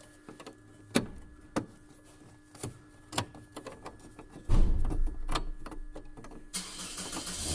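Small plastic clicks and taps as a halogen angel-eye bulb is worked into its socket in the headlight housing. About halfway through a louder low rumble comes in, and near the end a steady hiss.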